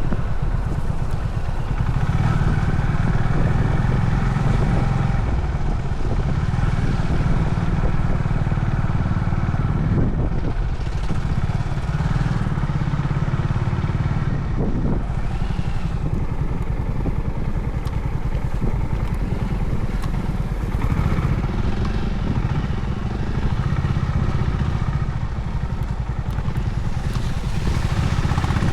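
Honda CB350 Highness single-cylinder engine running under way, its note swelling and easing with the throttle, over steady road noise.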